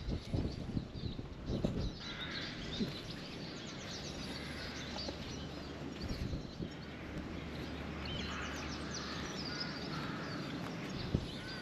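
Birds calling repeatedly outdoors over a low steady rumble, with a few footsteps in the first two seconds.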